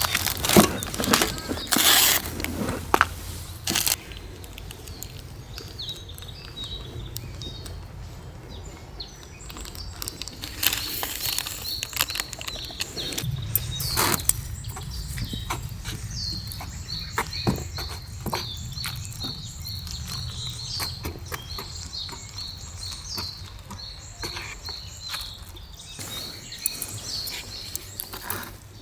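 Small birds chirping in short, repeated calls in a forest. In the first few seconds there are a few loud, brief rustling noises.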